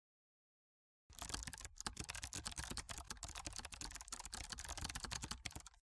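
Typing on a computer keyboard: a fast, uneven run of keystroke clicks that starts about a second in and stops shortly before the end.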